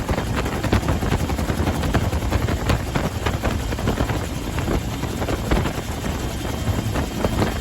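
UH-1H Huey helicopter running, heard from inside the cabin: the fast, steady chop of its main rotor over the dense rumble of its Lycoming T53 turboshaft engine.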